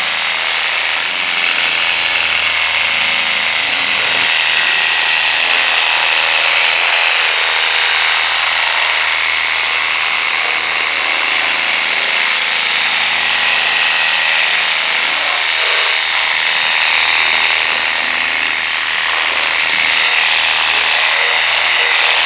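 Worx WG633 Hydroshot cordless pressure washer running steadily, its brushless motor-driven pump whining while the turbo nozzle sprays a spinning, hissing jet of water onto the vehicle.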